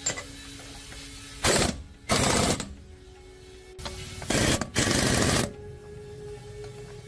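A power tool run in four short bursts of rapid rattling, in two pairs, over faint background music.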